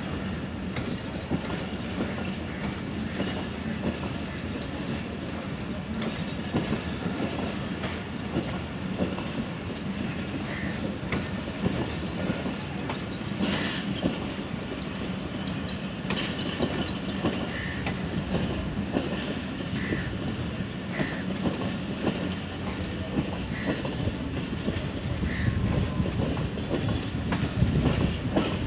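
Passenger train coaches rolling past close by as the train departs, the wheels clattering steadily over rail joints, with a brief squeak now and then.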